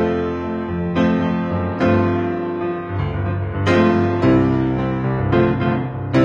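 Background piano music: slow, sustained chords and notes struck every second or so, each left to ring and fade.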